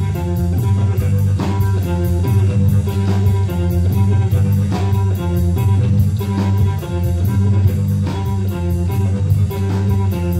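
Live blues-rock band playing an instrumental stretch of a song: electric guitar and bass over drums, with a steady cymbal beat.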